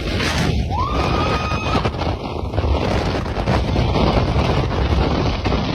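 Strong wind buffeting the microphone, a dense rushing noise heaviest in the low end, with a faint rising whistle about a second in.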